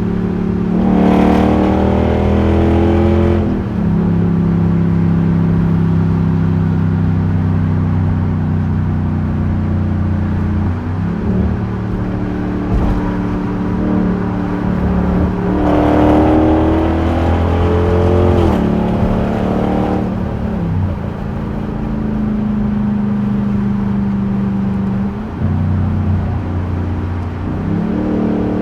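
Straight-piped 5.7-litre HEMI V8 exhaust of a 2021 Dodge Durango R/T at highway speed. It climbs in pitch under hard acceleration twice, once early and once about midway, with a drop in pitch at each upshift. Between the pulls it cruises at steady revs, and it starts climbing again near the end.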